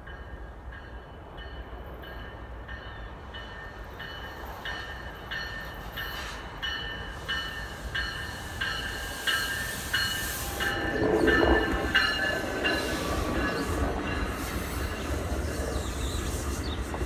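NJ Transit electric commuter train pulling into a station, getting louder as it approaches. A bell rings steadily about one and a half times a second, and wheel or brake squeal rises about two-thirds of the way through.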